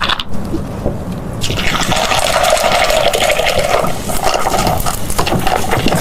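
Iced cola being poured into a large bowl: a steady pouring and fizzing sound that starts about a second and a half in and eases off near the end.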